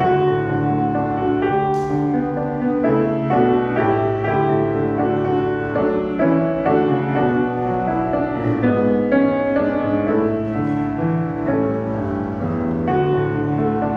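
Piano playing an instrumental piece, with a steady flow of notes that change every fraction of a second.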